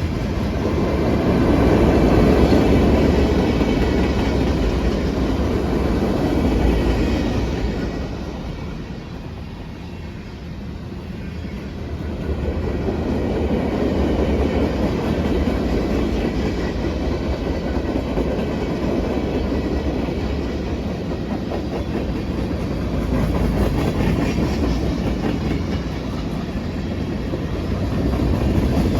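Freight cars of a long CSX freight train rolling past, steel wheels running on the rails with a steady rumble that eases for a few seconds about a third of the way in.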